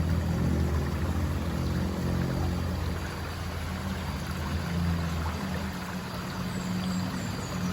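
River water flowing steadily, an even rushing sound, with a low steady hum underneath.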